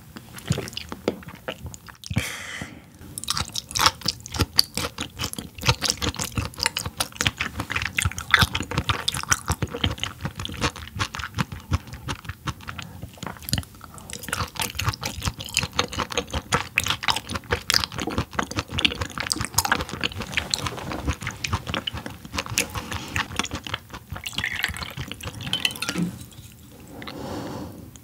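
Close-miked wet chewing of raw yellowtail sashimi: a dense run of small moist mouth clicks and light crunches that keeps on without a break.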